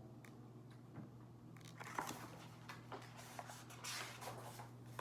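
Faint rustling and small scattered clicks over a low steady hum, typical of light handling noise with no speech.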